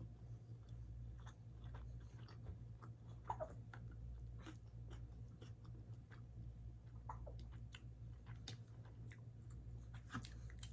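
Close-miked chewing of kimchi fried rice: soft, irregular mouth clicks and smacks over a low steady hum.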